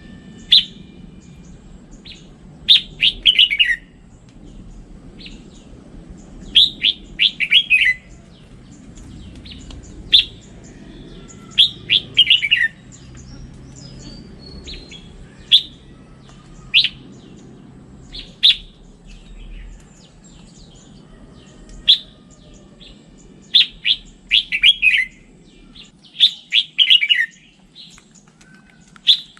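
Red-whiskered bulbul singing: short, quick phrases of clear, sharp notes repeated every second or two, with single chirps in between.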